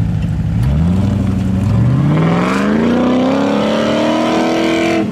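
Car engine idling, then revving: a short rise in pitch just under a second in, then a long, steady climb in pitch from about two seconds in that cuts off sharply at the end.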